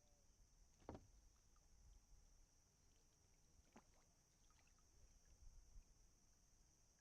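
Near silence, with a few faint knocks, the clearest about a second in and another near the four-second mark.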